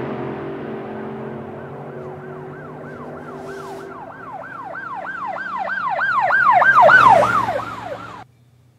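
Emergency vehicle siren in a fast yelp, its pitch sweeping up and down about two to three times a second, growing louder as it approaches and then cutting off suddenly near the end. A vehicle engine hum fades out beneath it in the first few seconds.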